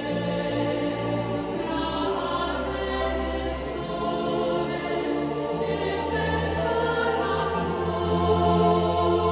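Background music: a choir singing slow, sustained chords over long held bass notes.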